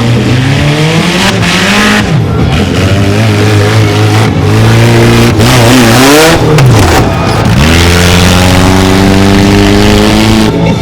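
Mini monster truck engine revving hard, its pitch climbing and dropping several times as the throttle is worked, then held at a steady high rev for the last few seconds.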